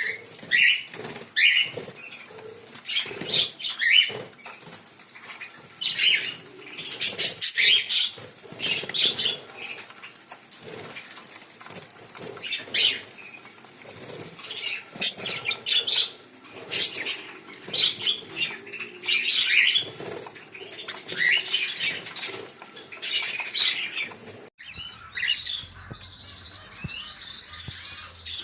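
A flock of aviary parrots (budgerigars, cockatiels and ringnecks) chirping and chattering, with repeated wing flapping.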